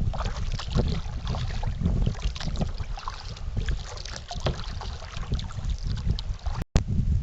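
Kayak paddling: irregular splashes of paddle strokes in the water, with wind rumbling on the action camera's microphone. The sound cuts out for an instant near the end.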